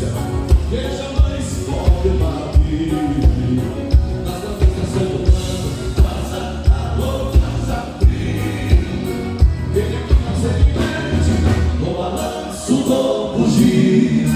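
A gaúcha regional band playing live with singing, over a steady bass-drum beat of about three strokes every two seconds.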